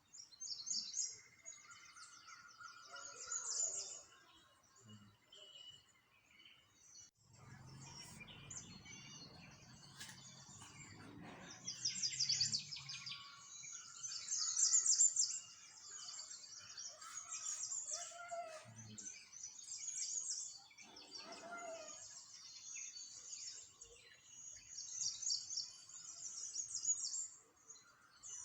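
Many small songbirds chirping and twittering in quick, high-pitched calls that overlap throughout. A low rumble runs underneath for a few seconds, from about a quarter of the way in.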